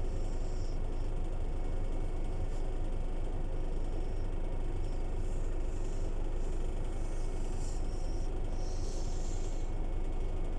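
Scania city bus running steadily: a constant low engine and road rumble, with faint high squeaks and rattles now and then.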